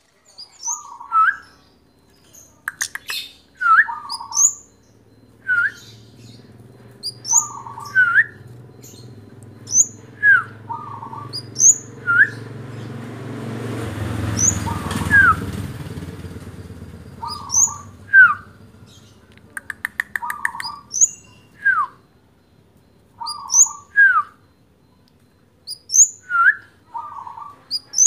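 A caged kemade, a black songbird with an orange head, calls over and over, about one phrase every two seconds. Each phrase is a short low burbling note, a sharp downward whistle and a thin high upslur. Around the middle a low rumble swells and fades behind the calls.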